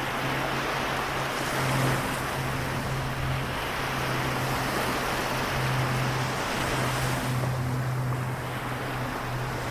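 Waves washing on the Seto Inland Sea shore, a steady rushing wash, with a continuous low hum underneath.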